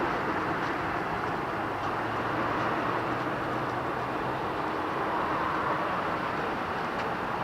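Steady engine noise of a jet airliner taking off, a continuous rushing rumble that swells slightly about five seconds in.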